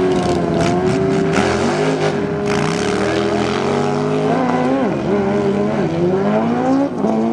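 Drag-racing motorcycle engines running hard. The revs hold steady for about four seconds, with some crackling early on, then waver, climb, drop sharply near the end and climb again.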